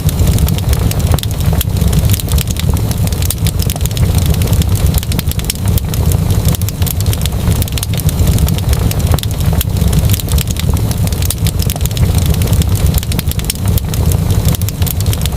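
Wood fire crackling steadily, many small sharp pops over a continuous low rumble.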